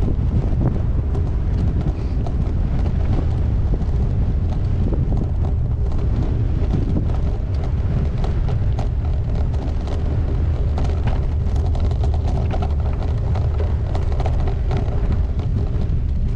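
Wind buffeting the microphone of a bike-mounted GoPro while cycling, a loud steady low rumble. Scattered clicks and rattles from the gravel bike and its tyres run through it.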